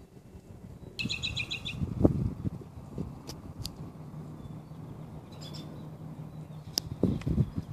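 A songbird sings a rapid trill of repeated high notes about a second in, followed by a few short sharp chirps. Low thumping and rustling noise comes up around two seconds in and again near the end.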